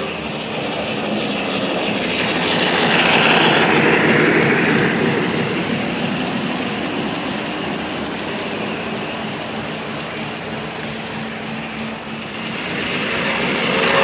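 O gauge model train running along the track, its wheels and motor making a steady rumble that swells as it passes about three seconds in and builds again near the end.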